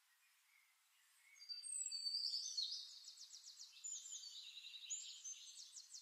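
Birdsong: high chirps and whistled glides with fast trills, faint at first and louder from about a second and a half in.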